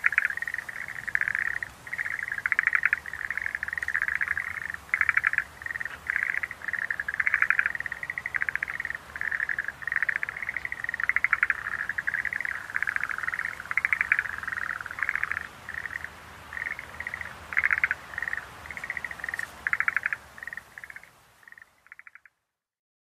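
Schlegel's green tree frogs calling in chorus: short trills of rapid pulses, repeated over and over and overlapping, fading out about 21 seconds in.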